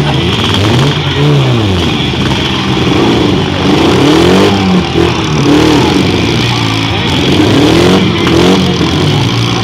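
Demolition derby car engines revving up and down over and over, several at once, over a steady background din.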